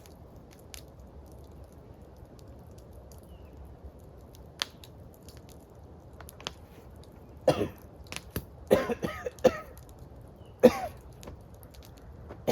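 A man coughing and clearing his throat in several short, loud bursts through the second half, after a few faint clicks over a low background hum.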